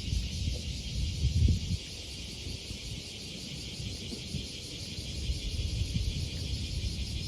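Steady chorus of insects, a high, finely pulsing buzz, over an irregular low rumble with a few soft thumps, the loudest about one and a half seconds in.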